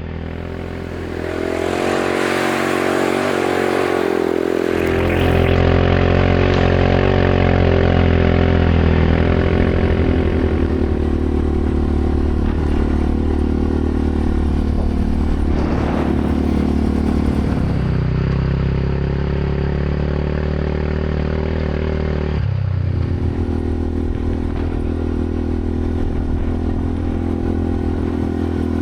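Quad bike engine running while riding, its pitch shifting with the throttle and stepping down about three-quarters of the way through. A rushing noise sits over it in the first few seconds.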